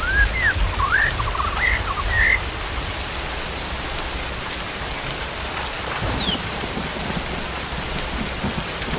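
Steady hiss of falling rain. A bird sings a quick run of short chirps and slurred whistles during the first couple of seconds, and one high falling whistle comes about six seconds in.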